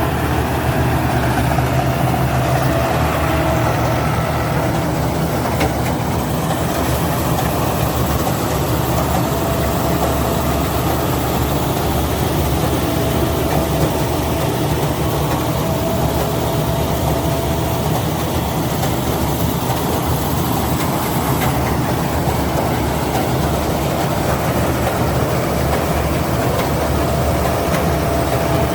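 Rice combine harvester running steadily, its engine and threshing machinery giving a continuous heavy hum with a thin whine that comes and goes.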